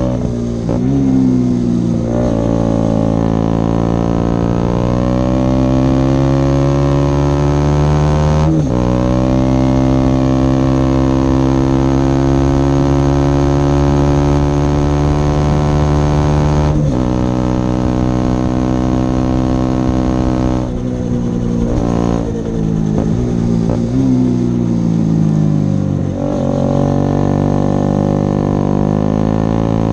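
KTM Duke 125's single-cylinder four-stroke engine, breathing through a Leovince decat pipe and an Akrapovic silencer with the dB killer removed, pulling under way. The revs climb steadily through the gears, with sharp upshifts about 8 s and 17 s in. Later the revs fall and waver with throttle blips before climbing again near the end.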